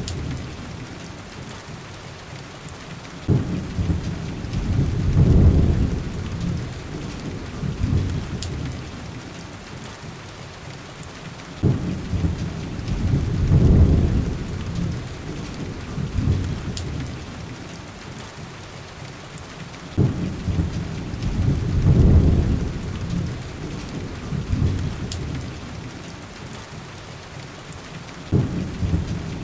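Heavy rain with rolling thunder: a low rumble begins suddenly about every eight seconds, four times, each swelling and dying away over the steady hiss of the rain. A few faint sharp crackles sit on top.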